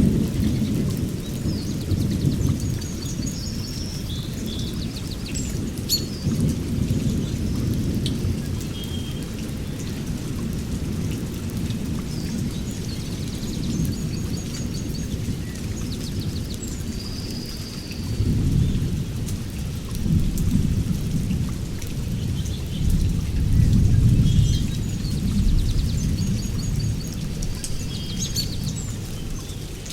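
Heavy rain falling steadily while low thunder rumbles roll in and swell several times, loudest near the start and in the second half. Short high chirping calls sound on and off above the rain.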